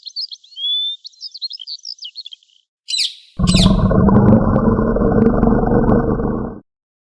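Songbirds chirping and whistling in quick, high notes, then two sharp sweeping calls. About three and a half seconds in, a loud, low rumbling sound starts, runs for about three seconds and cuts off suddenly.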